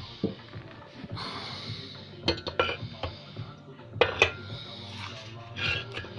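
Irregular metallic clinks and knocks of metal parts being handled, in a few quick clusters over a steady hiss.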